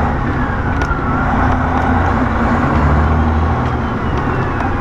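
Semi-truck diesel engine running steadily on the road, heard from the cab, with the turbocharger not boosting. A faint high tone glides downward twice, near the start and near the end.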